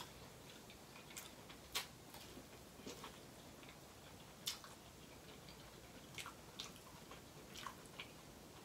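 Faint, scattered wet clicks of someone chewing a mouthful of corn on the cob, with a few sharper clicks about two and four and a half seconds in.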